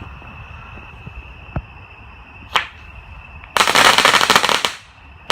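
Cutting Edge Fireworks Crackling Balls firework going off: a couple of single pops, then about a second of dense rapid crackling as the crackling stars burst, then another pop near the end.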